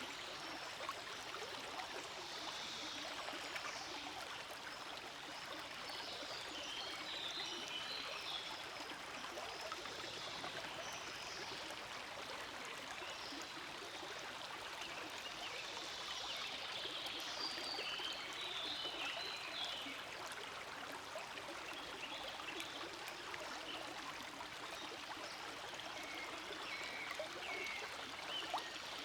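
Forest stream flowing: a steady babble of running water.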